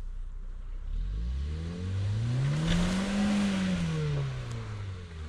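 Lada Niva engine revving up under load and easing off again while towing a heavy log: the engine pitch climbs from about a second in, peaks near the middle, then falls.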